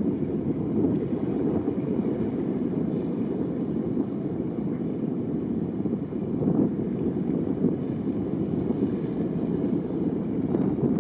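Steady low rumble of a boat under way, with wind buffeting the microphone.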